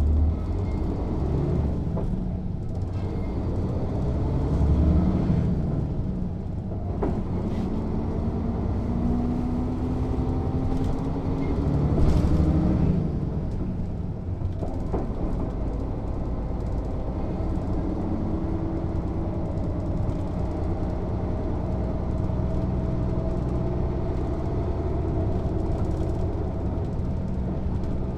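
Mercedes-Benz O 407 city bus's six-cylinder diesel engine under way. It pulls up in pitch to a peak about twelve seconds in, drops back as the gearbox shifts up, then runs on steadily with a slow climb.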